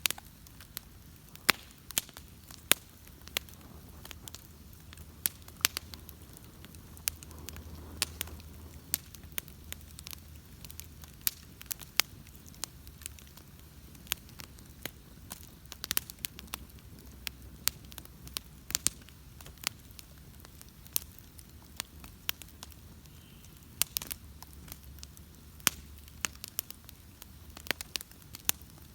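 Wood bonfire crackling: sharp, irregular pops and snaps, several a second, over a low steady rumble of the burning fire.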